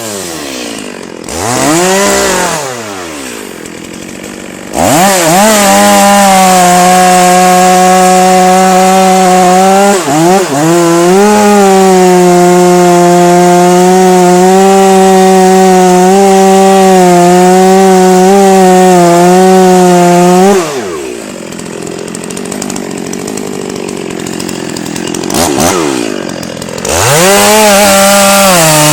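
Chainsaw revved in short blips and dropped to idle, then held at full throttle for about fifteen seconds with a brief dip partway through, as in a long cut into the wood. It falls back to idle, revs once, and runs up to full throttle again near the end.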